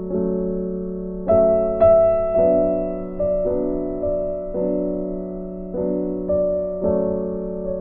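Slow, soft background piano music: gentle chords struck about once a second, each fading away as it rings.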